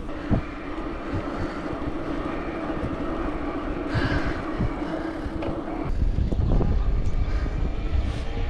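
Wind rumbling on the microphone during a bike ride along a road, over a steady hum; the rumble grows louder about six seconds in.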